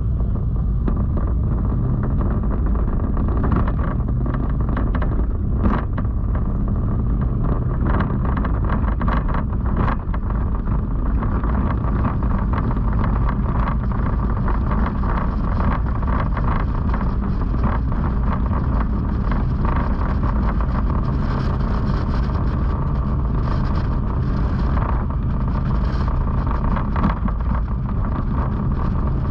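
Motorcycle under way, its engine running steadily along with road noise.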